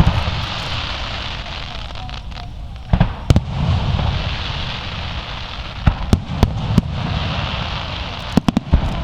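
Fireworks display: shells bursting in sharp bangs, two about three seconds in, three more a few seconds later and a quick cluster near the end, over a continuous rumbling, hissing background.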